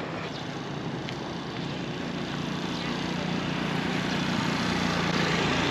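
Motor vehicle engine on the street, a steady low drone growing gradually louder as it draws near.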